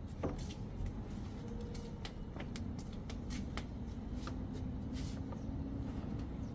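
Irregular light clicks and rustling of plastic parts being handled: a washing machine's touch control board and its ribbon cable. A steady low rumble runs underneath.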